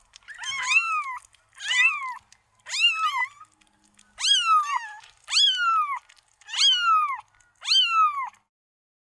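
Domestic cat meowing over and over: seven short meows about a second apart, each rising briefly and then falling in pitch.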